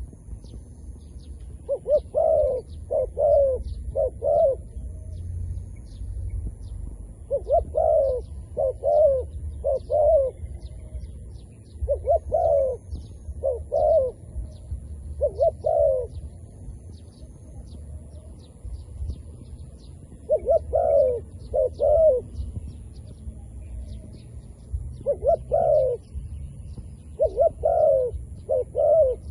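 Decoy dove cooing in repeated phrases of two to four notes, about six phrases in all, over a steady low rumble with faint high chirps.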